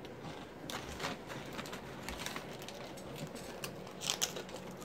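A child chewing crunchy cheddar cheese veggie straws, a string of irregular crisp crunches.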